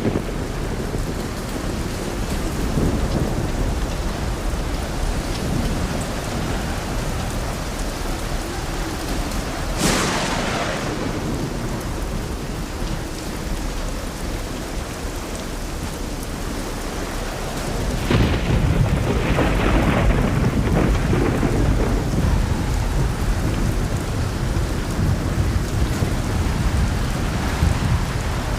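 Steady rain falling, with thunder: a sharp crack about ten seconds in, and a long low rumble that swells up about eighteen seconds in and rolls on to the end.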